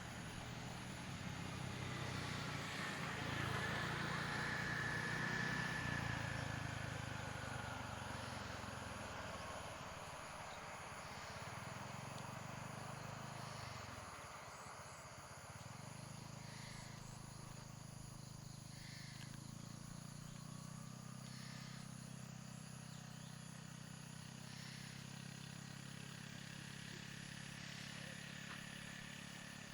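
Low engine hum of vehicles, one swelling louder and fading over the first several seconds, with insects trilling steadily in the background.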